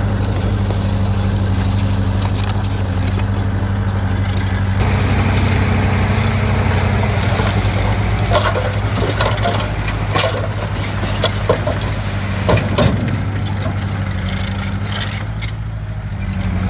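Heavy diesel engine of a bulldozer running steadily under load, with metallic clanking and rattling that comes thickest around the middle.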